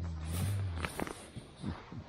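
A dog's low, drawn-out groan lasting a little under a second, followed by a few soft rustles and clicks of bedding or tent fabric.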